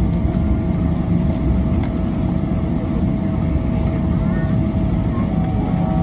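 Steady low rumble inside the cabin of a Boeing 777-300ER rolling on the ground just after landing, with a thin steady tone above the rumble.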